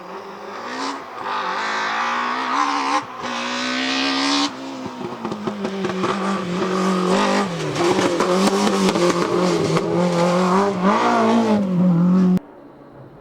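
BMW M3 E30 Group A rally car's four-cylinder engine at full throttle, its pitch climbing through two quick upshifts, then held at high revs with a rough crackle over the engine note. The sound cuts off abruptly near the end.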